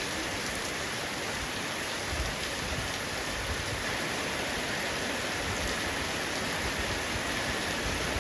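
Heavy rain falling steadily on a roof: a dense, even hiss of raindrops that holds at the same level throughout.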